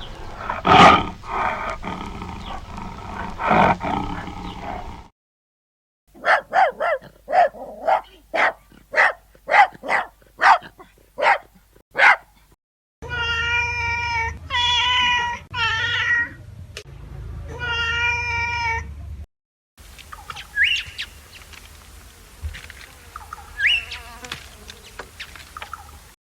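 A tiger roaring and growling for about five seconds, then after a short silence a dog barking about a dozen times in quick succession, then a cat meowing several times in long, clear meows. The last few seconds are quieter, with two short rising squeaks.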